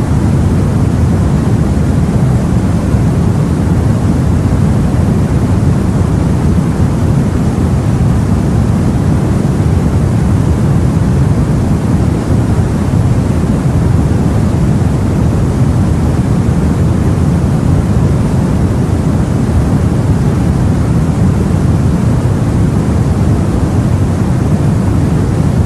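A steady, low rush of sea and wind that holds constant, with no separate wave breaks or other events standing out.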